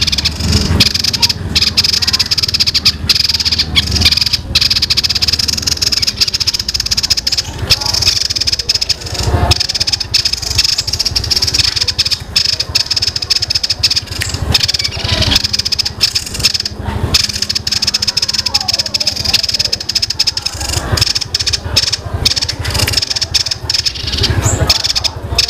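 Small songbird singing a long, dense, high-pitched rolling chatter that sounds like sparrows fighting. A few low thumps come through around nine seconds in and near the end.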